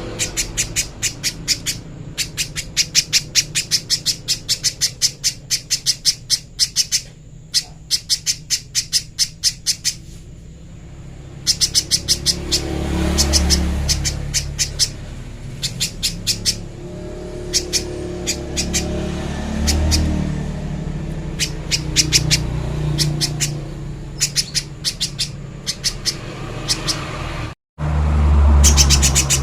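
Spiderhunter calling: long runs of rapid, sharp, evenly repeated high chip notes, several a second, broken by short pauses. Low rumbles swell under the calls now and then, and the sound drops out for a moment near the end.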